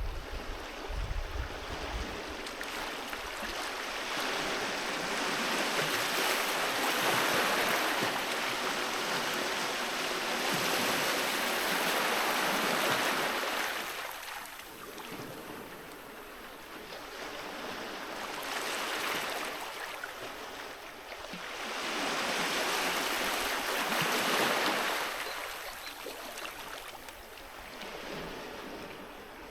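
Sea waves washing onto the shore, a steady surf hiss that swells and ebbs as each wave breaks and draws back, with surges peaking several seconds apart.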